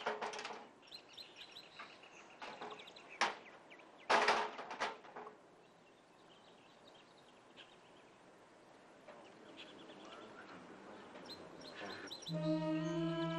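Birds chirping in quiet outdoor ambience, with a cluster of short, sharp calls in the first five seconds and only faint chirps after. About a second before the end, a sustained music chord of held tones comes in.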